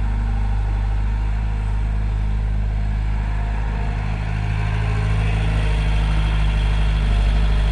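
Diesel engine of a tractor or backhoe loader running steadily, growing somewhat louder about halfway through.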